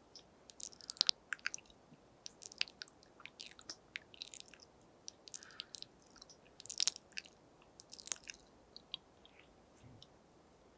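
ASMR mouth sounds close to a binaural microphone: a rapid, irregular run of wet clicks and pops from the tongue and lips, thinning out near the end.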